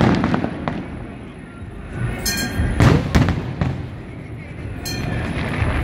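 Fireworks going off: a string of sharp bangs, about five in all, the loudest pair about three seconds in, over a continuous rumbling background.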